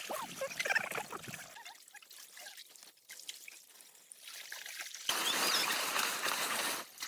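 Water trickling, then a steady rush of pouring water for about two seconds near the end that starts and stops abruptly.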